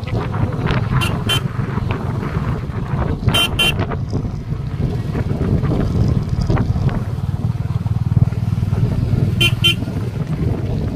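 Royal Enfield motorcycle engine running steadily on the move, a low exhaust beat. A horn gives a quick double beep about three seconds in and again near the end.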